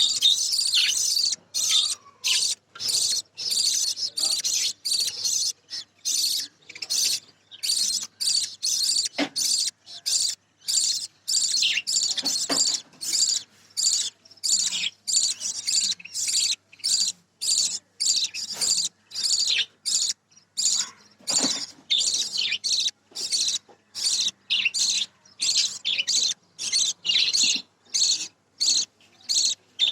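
Budgerigars chattering and chirping close up, a dense high warble broken again and again by brief silent gaps.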